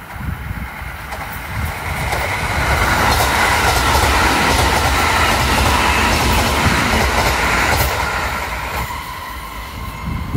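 Kintetsu 5200 series electric train passing close by: the noise of its wheels on the rails builds over the first couple of seconds, is loudest as the cars go past, and fades as the train pulls away.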